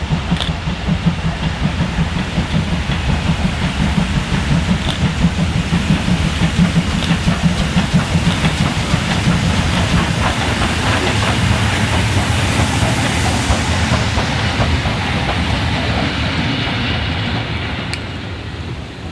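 A train passing on the rails: rapid low pulsing at first, then a swell of rushing wheel-and-rail noise with a high hiss that peaks a little past halfway and eases off near the end.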